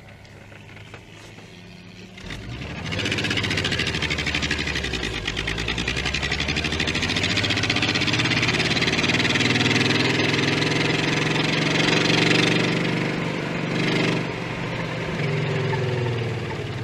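Old Toyota Land Cruiser hardtop's engine and loud exhaust, building up about two seconds in and running hard with its pitch shifting as it drives. It eases off briefly near the end, then picks up again.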